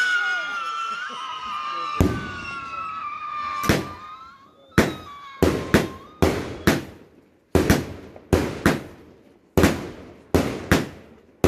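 Garden fireworks. A shrill whistle falls slowly in pitch over the first four seconds, broken by two bangs. Then comes a run of sharp firework bangs, about one every half second, in small clusters.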